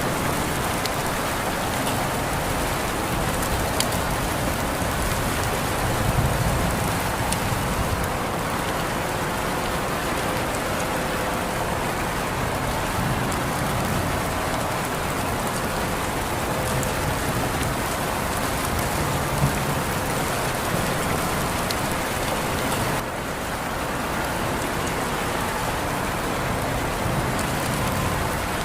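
Steady rainfall, an even hiss of rain on surfaces with scattered individual drops.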